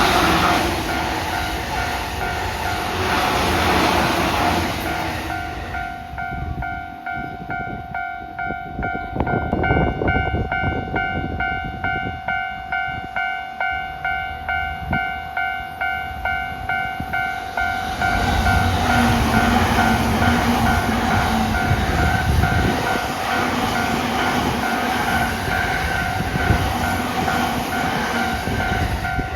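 A level-crossing warning bell rings steadily in a fast, even repeating beat the whole time. A passing electric train rushes past until about five seconds in. After a quieter stretch, a second train, the Odoriko limited express, arrives about eighteen seconds in and passes at speed with a loud rumble of wheels on rail.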